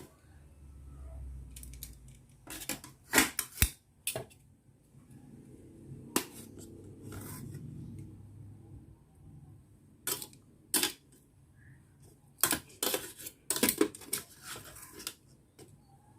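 Kitchenware clinking and clattering: sharp knocks of utensils and dishes, in short clusters a few seconds apart, with the busiest run near the end.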